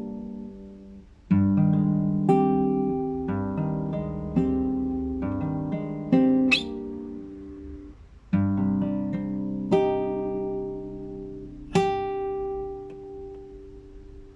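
Solo classical guitar improvising: a run of plucked and strummed chords, each left to ring and die away, after a short pause about a second in. The last chord, near the end, fades out slowly.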